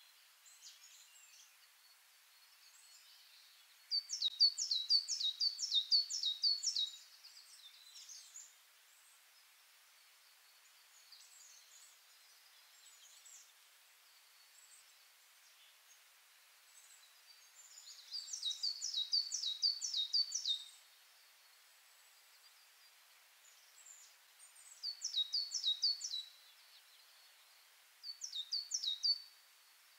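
A small songbird singing: four phrases of eight to ten quick, high, downward-slurred notes, each phrase about two to three seconds long, with faint chirps and a light hiss between them.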